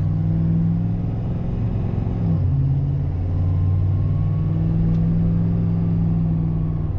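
Pickup truck engine and drivetrain running steadily while driving, heard from inside the cab, with a brief change in engine note about two seconds in. A faint whine rising slowly in pitch runs through the second half, the kind of whine the driver has been hearing from the transmission and likens to a supercharger whine.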